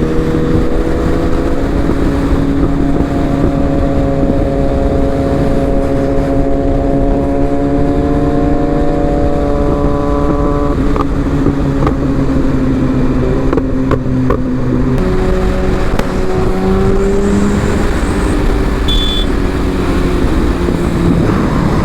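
Sportbike engine holding a steady drone at highway cruising speed, its pitch drifting slowly and shifting about fifteen seconds in, under heavy wind rumble on the rider's microphone.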